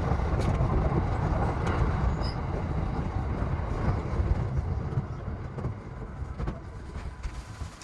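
E233-7000 series electric train running on the rails, heard from inside: a steady low rumble with a few light clicks, which dies down gradually over the last few seconds.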